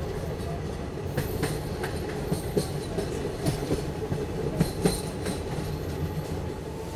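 ICF passenger coach running over the track: a steady low rumble of wheels on rail, broken by irregular sharp clacks and knocks from the wheels.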